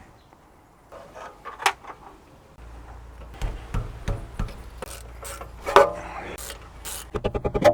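Hand tools at work on car underbody parts: scattered knocks and clicks with rubbing and scraping over a low steady hum. Near the end comes a fast, even ticking, about eight ticks a second.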